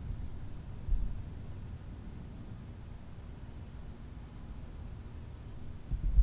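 Steady high-pitched insect chorus trilling without a break, with low thumps on the microphone about a second in and again near the end.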